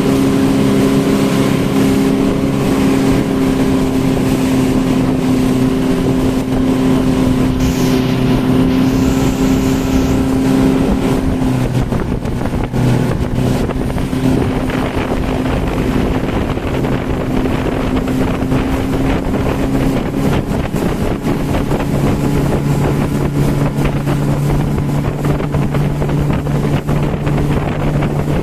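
Motorboat engine running steadily, its pitch shifting a little about twelve seconds in and again near the end, with wind buffeting the microphone.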